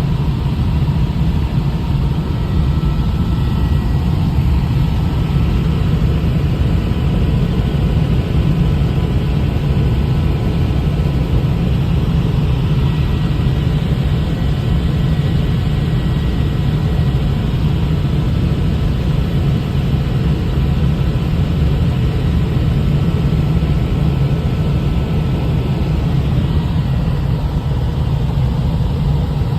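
Helicopter in flight: a steady, loud drone of rotor and engine, with faint high whining tones over it.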